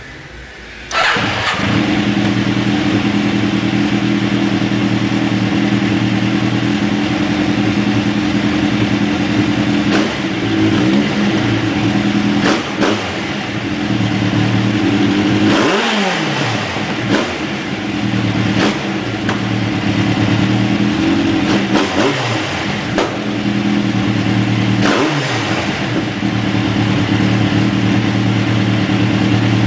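Yamaha XJR1300 inline-four motorcycle engine through a new 4-2-2 exhaust: it starts about a second in, idles steadily, and is blipped on the throttle about seven times, each rev rising and falling back to idle.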